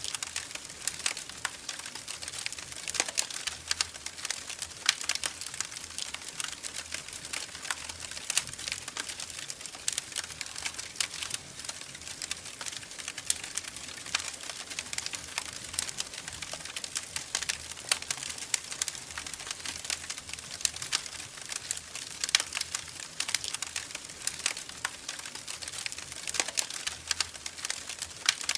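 Wood fire crackling, with many sharp, irregular pops and snaps over a soft steady hiss.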